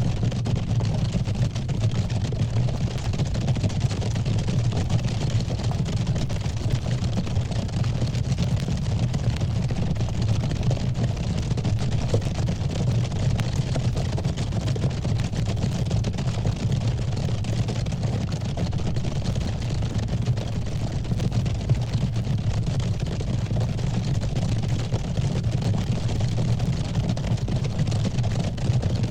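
A steady, unchanging low rumble with a faint hiss above it, like a heavy engine or a vehicle running, that holds at one level throughout.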